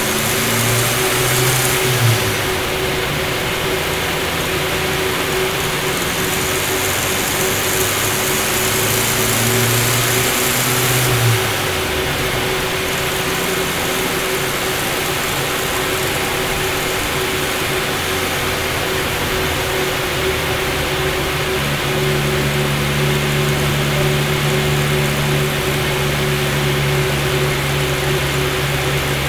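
Turbocharged Ford Pinto 2.0 OHC four-cylinder (GT2560R turbo blowing through a carburettor) running on a rolling road dyno at steady speeds, the engine note shifting to a new steady pitch about eleven seconds in and again around twenty-two seconds in. Under it is a steady hum and an even rushing noise.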